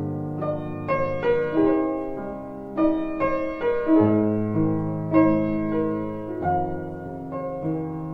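Background music: piano playing slow, gentle chords and melody notes.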